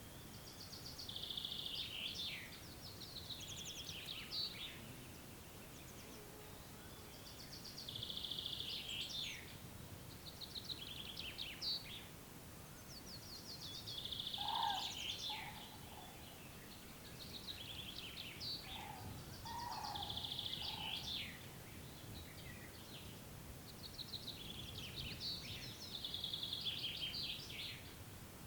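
Songbirds singing short phrases of quick trills and falling notes, over and over with brief pauses, against a steady outdoor hiss. Twice, around the middle, a lower call sounds beneath the songs.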